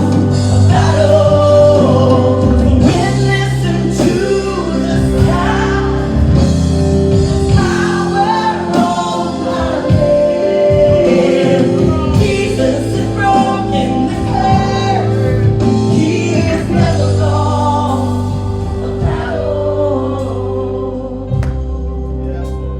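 Gospel worship music: a choir or group of singers with instrumental backing, singing a slow song with long held chords, easing off a little near the end.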